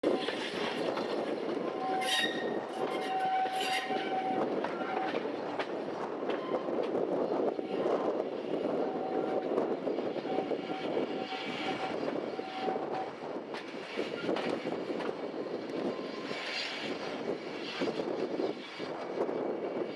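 Steam-hauled passenger train heard from on board as it arrives at a station. The wheels are running on the rails, with a thin squeal coming and going over the first dozen seconds.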